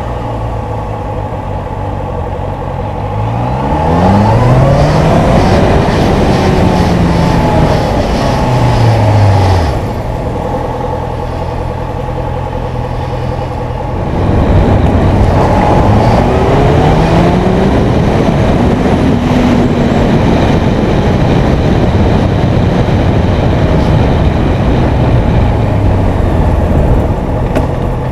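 Honda CB650F's 649 cc inline-four engine pulling away, revs rising in steps through the gears, then falling as it slows and settles to a steady low note. About halfway through it pulls away again and climbs through the gears before running steadily, with a haze of wind and road noise throughout.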